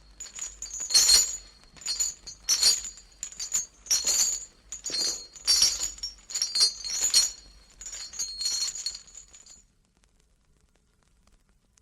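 Recorded sound effect of repeated sharp clinking impacts with a bright ringing, roughly one or two a second, that stops abruptly near the end and leaves near silence.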